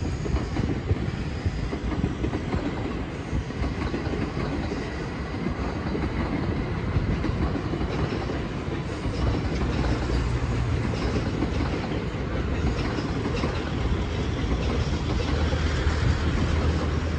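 Electric limited express train rolling through the station yard: a steady rumble of wheels on rail with some clickety-clack over joints and points. A low hum builds near the end.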